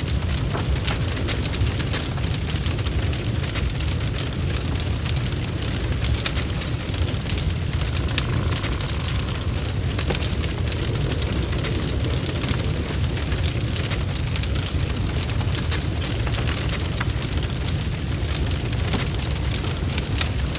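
Wood fire burning, with a steady low rumble and a dense scatter of sharp crackles and pops.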